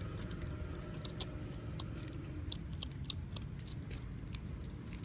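Puppies feeding: small wet mouth clicks and smacks at an uneven pace, over a steady low hum.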